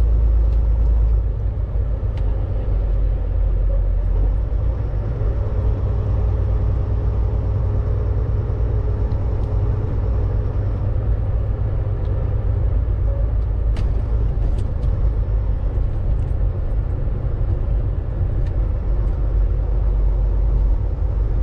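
Steady low rumble of a Volvo VNL 860 semi-truck's diesel engine and drivetrain, heard inside the cab while the truck drives.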